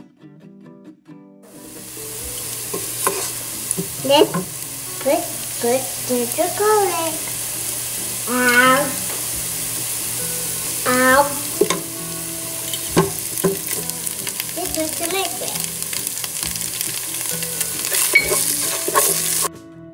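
Chopped onion and curry leaves sizzling in hot oil in a nonstick pot, stirred with a wooden spatula that scrapes and knocks against the pan. The sizzle starts about a second and a half in and cuts off suddenly near the end.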